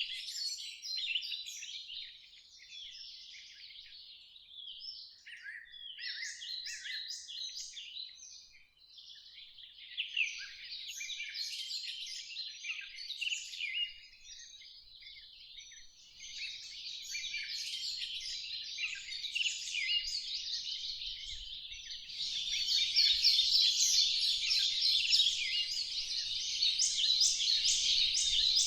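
Many birdsong recordings layered on top of one another: a dense mass of overlapping chirps and trills that abruptly grows thicker and louder about three-quarters of the way through.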